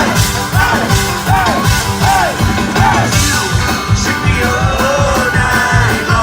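Live band playing a country-bluegrass-style cover of a hard rock song, with a steady driving beat under short rising-and-falling melodic phrases repeated about twice a second.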